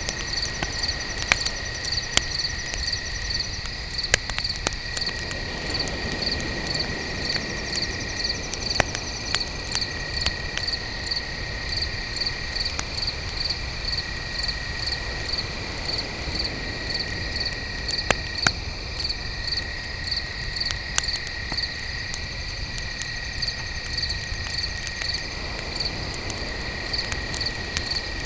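Crickets chirping, one in an even pulse of about two chirps a second over a lower, continuous trill. Under them a campfire crackles with scattered sharp pops.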